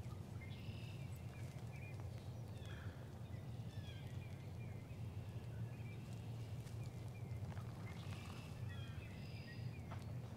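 Faint birdsong: short, high chirps repeating throughout, over a steady low rumble.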